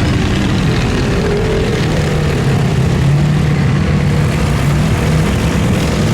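Large engine running with a steady, loud low drone that holds its pitch.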